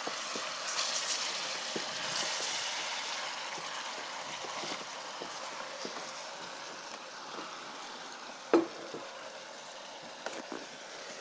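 Sauce base sizzling as it fries in a cooking pot, a steady hiss that slowly dies down. A spoon knocks on the pot now and then, most sharply once about eight and a half seconds in.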